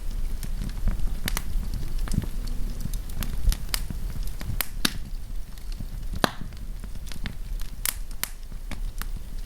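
Wood campfire crackling, with irregular sharp snaps and pops over a steady low rumble of the burning fire.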